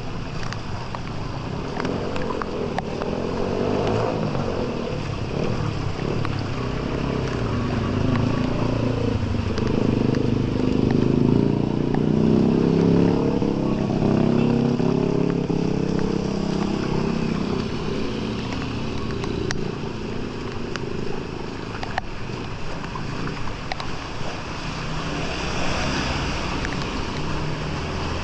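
A motor vehicle's engine passes close, swelling to its loudest a little past ten seconds in and fading by about sixteen seconds, over a steady rushing noise of water.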